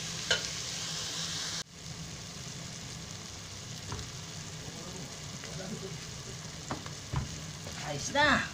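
Tomatoes and onions sautéing in oil in an aluminium pot, sizzling steadily, with a metal spoon scraping against the pot now and then. The sound breaks off abruptly about two seconds in and resumes a little quieter.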